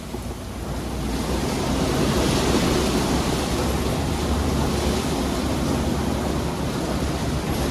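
Istobal M1 rollover car wash working over the car, heard from inside the car: a steady rush of water spraying and washing over the body. It grows louder over the first couple of seconds, then holds.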